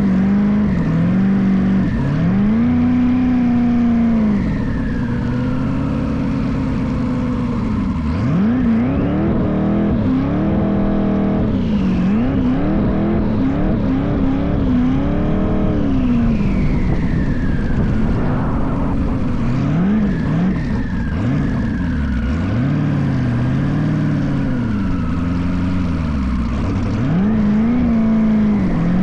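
LS-swapped V8 engine in a BMW E36 drag car revving up and down over and over, its pitch rising and falling in quick swells with no pause.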